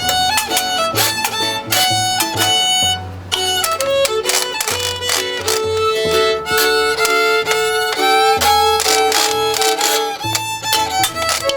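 Instrumental break of a string band: a fiddle plays the melody over a bass ukulele line, with ukulele strumming and washboard clicks keeping the beat.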